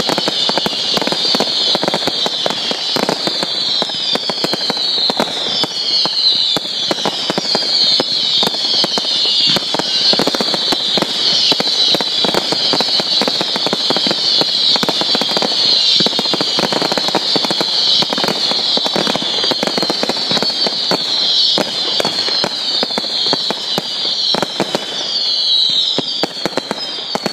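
Fireworks barrage going off: a dense, continuous crackle of small bursts under overlapping high whistles. Each whistle falls in pitch, and a new one starts every second or so. The volley thins out near the end.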